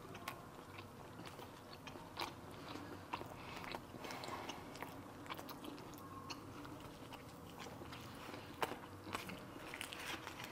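People chewing pizza: faint, close-miked chewing with many small mouth clicks and smacks scattered throughout.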